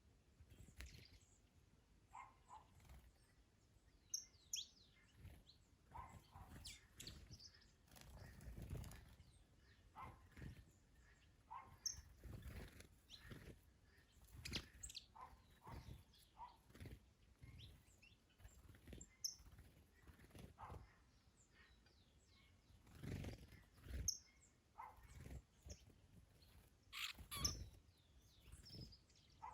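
Garden birds chirping in short, scattered calls, some high and thin and some lower, with gusts of wind rumbling on the microphone now and then.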